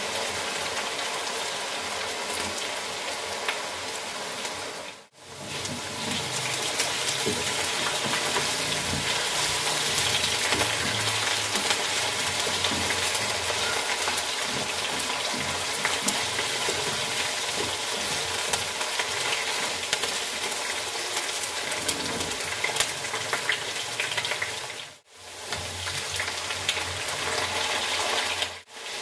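Cubed potatoes and onions sizzling in hot oil in a nonstick wok, with a slotted spatula stirring and scraping through them in small clicks. The sizzle drops out suddenly and briefly about five seconds in and twice near the end.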